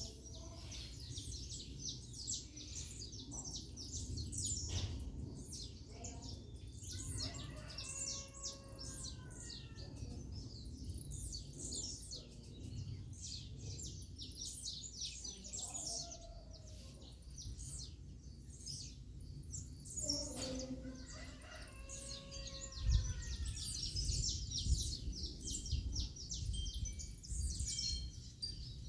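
Many small birds chirping and twittering in a dense morning chorus. Twice, about a third of the way in and again about two-thirds in, a longer, lower call stands out. Low rumbles come near the end.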